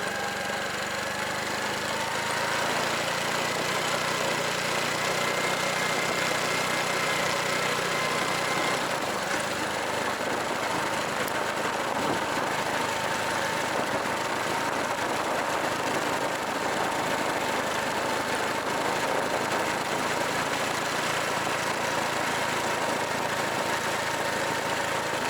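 Honda Super Cub's single-cylinder four-stroke engine running on a downhill ride, over a steady rush of wind and road noise. The engine note shifts about nine seconds in, then holds steady.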